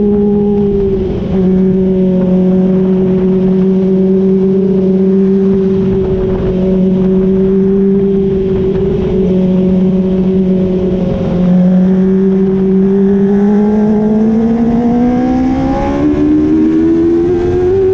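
Dwarf race car engine running at steady revs, with a brief dip about a second in. Over the last six seconds the engine note climbs steadily in pitch as it revs higher.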